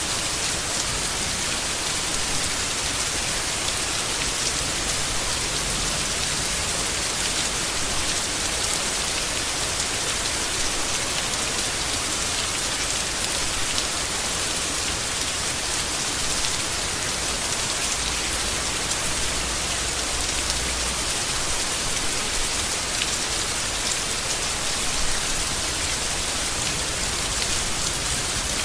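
Steady rain falling on leaves, an even hiss with many small drop ticks in it.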